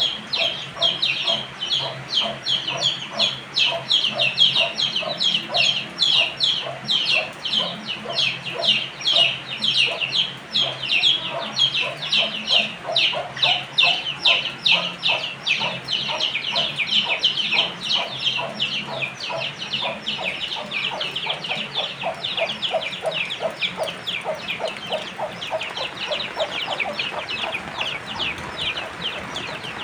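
A long, even run of short, high animal calls, about three or four a second, growing fainter over the last third.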